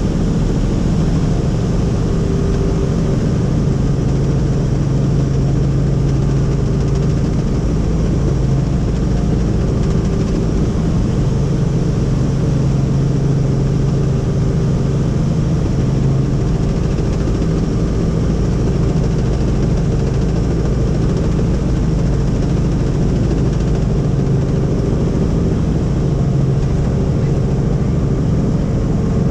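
Helicopter engine and rotor running steadily in flight: a loud, even hum with a constant pitch and no change in speed.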